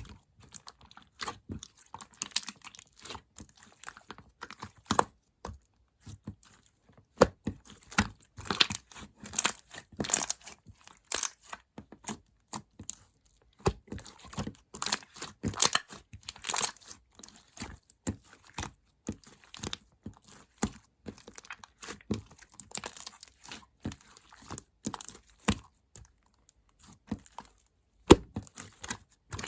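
Clear slime topped with grape clay being squished and stretched by hand, giving irregular sticky crackles, clicks and pops that come in uneven clusters.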